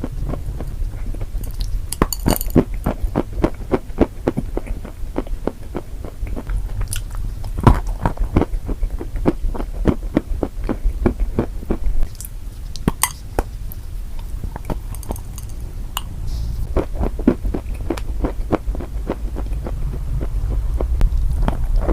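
Close-miked chewing and biting of crunchy food: a dense run of crisp cracks and crackles, with a few louder crunches, over a steady low hum.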